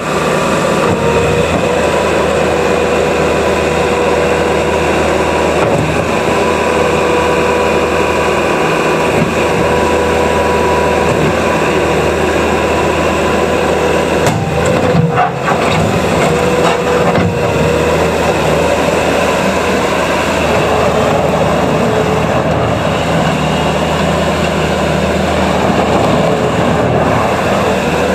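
A Bobcat S650 skid steer's 74 HP Doosan diesel engine running steadily, with a steady whine over the engine note. There is a short burst of clatter about halfway through.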